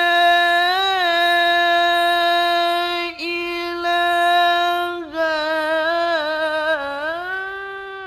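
A male Quran reciter holding one long melodic note in unaccompanied recitation, steady in pitch with a short break about three seconds in. From about five seconds it turns into rapid wavering ornaments, then slides up near the end.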